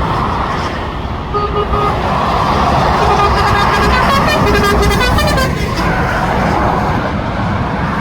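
Motorway traffic running below, with a vehicle horn tooting: a short double toot about a second and a half in, then a longer horn blast from about three to five and a half seconds in that falls in pitch as it ends.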